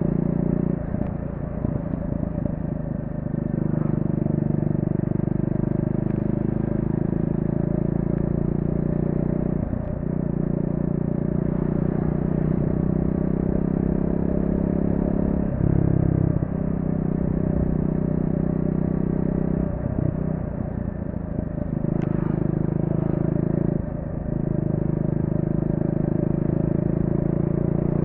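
Triumph Speed 400's 398 cc single-cylinder engine running under throttle on its stock exhaust. Its steady note drops out briefly about five times as the throttle is closed and reopened through the corners.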